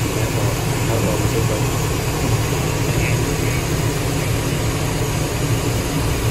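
Steady low drone and hiss of an Airbus A321 during pushback, running evenly.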